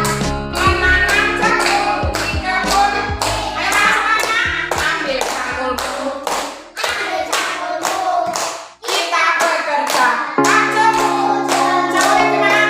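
A song with singing over instrumental music and a steady clapping beat, with a short break about nine seconds in.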